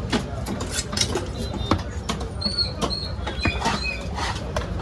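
Irregular knocks of a knife blade striking a chopping block as a large trevally is cut up, over a steady low rumble. A few short high squeaks come about halfway through.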